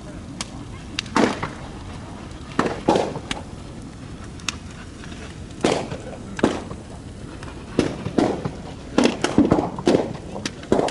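Large bonfire burning, with loud sharp pops and cracks bursting at irregular intervals, sometimes several in quick succession, over a steady crackle.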